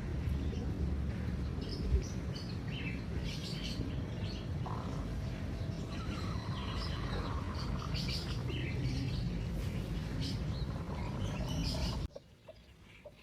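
Many short, high chirps from small birds over a steady low rumble, with one thump about two seconds in; the rumble and chirping drop away abruptly near the end.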